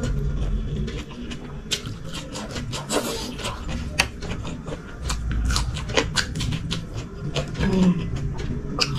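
Close-miked eating: chewing with many short wet mouth clicks and smacks, over low handling rumbles.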